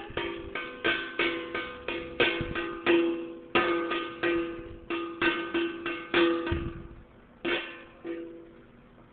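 Irregular banging on an object that rings with the same few pitches: about twenty quick strikes, each ringing briefly, thinning out and stopping near the end.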